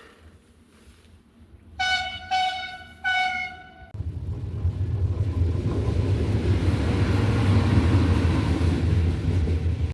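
A train sounds its horn three times in quick succession, the last note a little longer, then a train runs past with a loud low rumble that builds and holds.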